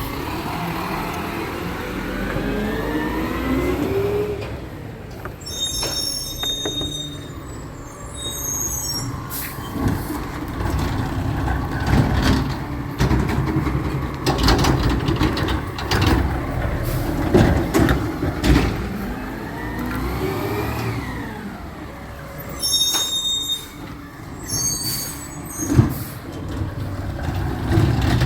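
Recycling truck working its loading cycle: the engine and hydraulics rise in pitch as a cart is lifted, then recyclables clatter and clink into the hopper with sharp knocks. The cycle repeats about twenty seconds in.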